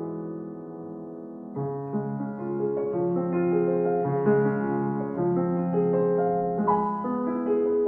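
Slow, gentle piano music: sustained chords with a soft melody, a new chord entering about a second and a half in.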